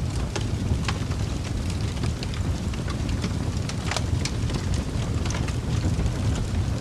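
Wood fire burning in a fireplace: a steady low rumble of flames with irregular crackles and pops, a sharp snap about four seconds in.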